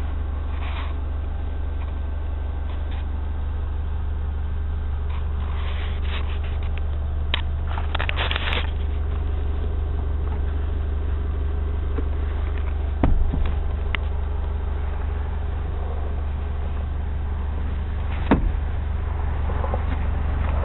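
Car engine idling as a steady low hum. There are some rustling noises around six to eight seconds in, and two sharp knocks, about 13 and 18 seconds in.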